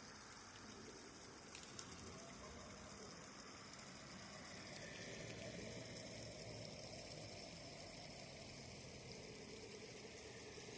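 Faint, steady rush of river water, slowly growing a little louder, with one small click about two seconds in.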